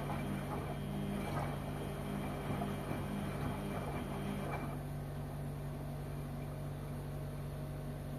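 LG washing machine running, with a steady motor hum. A rougher, busier noise over the hum stops about halfway through, leaving only the hum.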